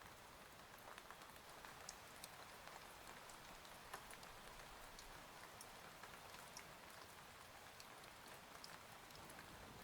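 Faint steady rain with scattered single drops ticking through it.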